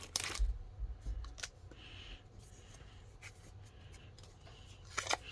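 Faint handling of trading cards from a freshly opened booster pack: a few light clicks and soft bumps, otherwise quiet room tone.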